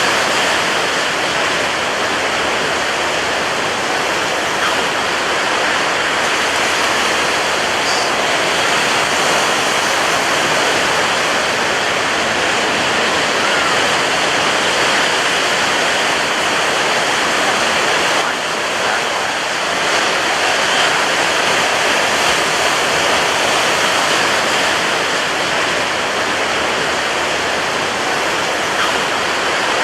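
Ocean surf breaking on a beach: a steady, even rush of water noise with little rise and fall, easing slightly for a moment about 18 seconds in.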